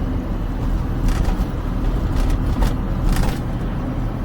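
Steady engine and road noise heard from inside a moving Smart car, with a few brief clicks or knocks about a second in and around two and a half to three seconds in.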